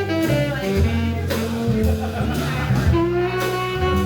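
Live jazz band playing: a pitched melody line over sustained bass notes, with drum and cymbal hits.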